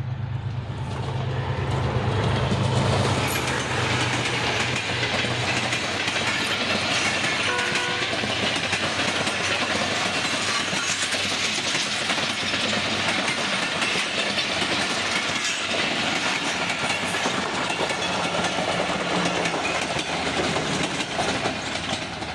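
Passenger train running past on the rails: a strong low engine hum from the locomotive for the first few seconds, then a steady loud rush and clatter of the coaches' wheels on the track. A short tonal sound comes about eight seconds in.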